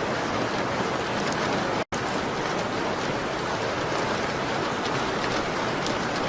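Steady rain on a window, an even hiss with scattered light ticks. The sound cuts out completely for an instant about two seconds in.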